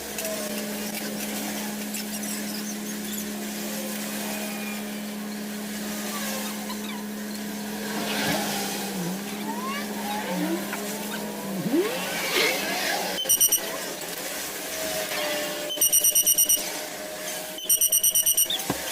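A steady mechanical hum with faint sliding tones over it, which stops about twelve seconds in. Then come three short bursts of rapid high-pitched electronic beeping.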